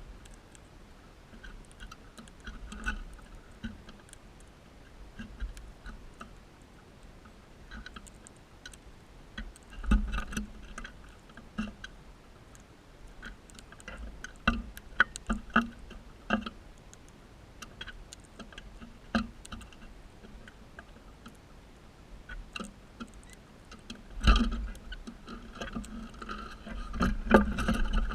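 Crimson rosella cracking and husking seeds: irregular sharp clicks and crunches, with louder bunches of clicks and low thumps about ten seconds in and again near the end.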